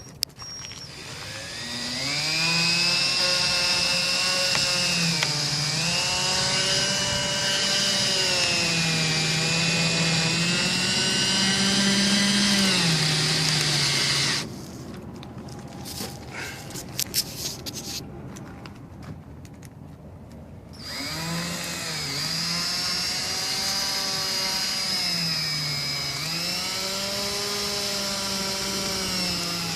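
Power drill driving screws, its motor whine sagging and recovering as the load changes. It runs in two long spells with a pause of several seconds in the middle, where there are a few clicks and knocks. The screws are oversized ones, driven to pull the separated slide-out wall back in tight against the floor.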